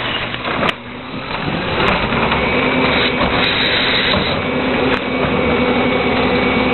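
Garbage truck engine running with a steady whine. It builds over the first two seconds and then holds steady.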